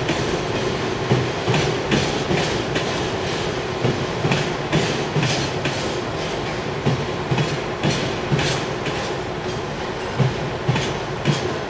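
Empty railway tank wagons rolling slowly past during shunting, their wheels clicking over the rail joints in a steady clickety-clack.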